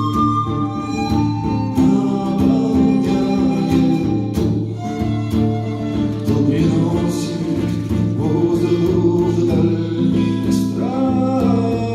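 A song: sustained, wavering sung melody over steady instrumental accompaniment.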